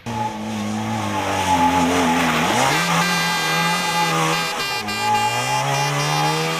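Rally car engine running hard at high revs. The revs climb sharply about two and a half seconds in, drop briefly near five seconds at a gear change, then climb again.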